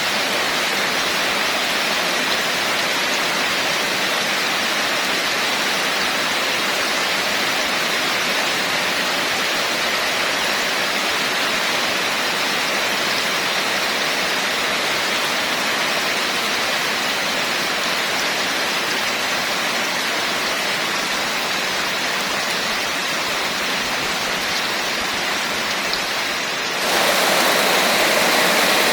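Steady, heavy rainfall hissing evenly, with no distinct drops standing out. About 27 seconds in it cuts abruptly to a louder rain sound, as at an edit between two recordings.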